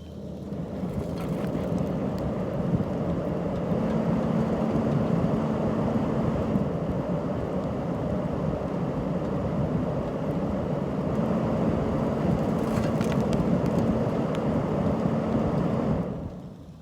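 Powerful blower running steadily for about fifteen seconds, forcing air through a dryer vent duct to blow the built-up lint out of the roof exit. It starts just after the beginning and cuts off near the end.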